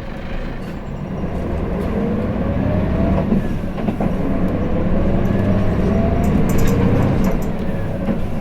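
Hino Blue Ribbon City diesel city bus running, heard from inside the cabin, with a deep rumble under a whine that rises in pitch as it gathers speed. The whine drops about three seconds in, as at a gear change, then climbs again and levels off.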